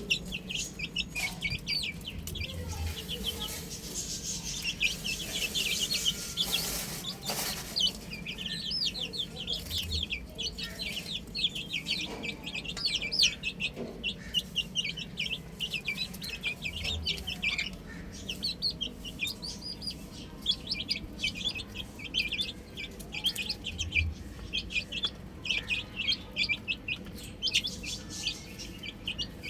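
A group of baby chicks chirping, with many short, high-pitched peeps overlapping continuously.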